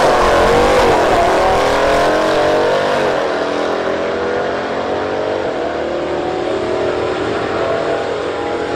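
2015 Dodge Challenger's engine at full throttle on a drag-strip launch, rising in pitch and dropping back with each gear change, then running on more steadily and slowly fading as the car pulls away down the strip.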